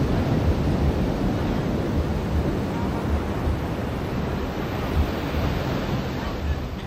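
Ocean surf washing onto a beach: a steady rush of water noise that slowly eases toward the end, with wind buffeting the microphone.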